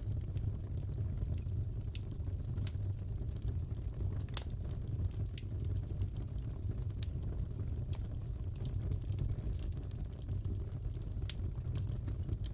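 Crackling fireplace: a steady low rumble of the fire with scattered, irregular sharp crackles and pops.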